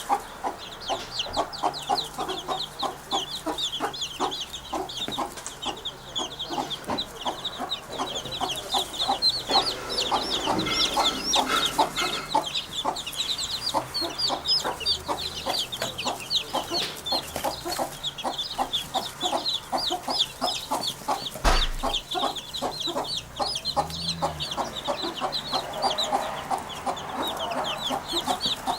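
Birds calling in a dense, rapid, unbroken chatter of short high notes, sounding like clucking chickens.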